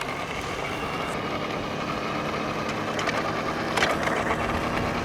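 A 150 cc dirt bike's engine idling low and steady, nearly out of fuel and close to stalling, with a few faint clicks about three to four seconds in.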